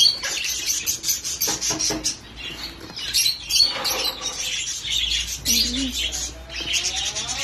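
A flock of lovebirds and parrots chattering, with many rapid, overlapping high chirps.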